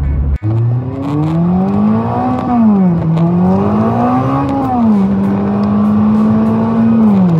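Car engine heard from inside the cabin, accelerating through the gears: its pitch climbs and drops twice as it shifts up, then holds steady and falls again near the end.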